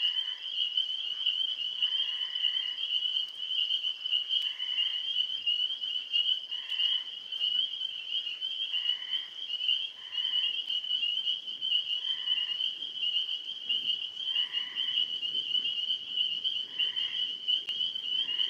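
Night frog chorus: a steady, high-pitched trilling drone, with a shorter frog call repeated about every two seconds over it.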